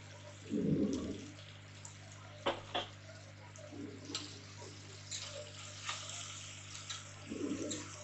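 Onions, green chillies, garlic and ginger sizzling in oil in an aluminium pressure cooker, stirred with a steel spatula that scrapes against the pot. Two sharp metal clinks come about two and a half seconds in.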